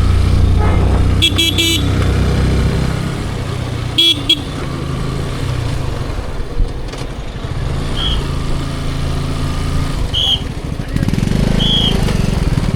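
Motorcycle engine and road noise running steadily on the ride, with vehicle horns tooting: two short blasts about a second in and another around four seconds in. A few brief high beeps follow later.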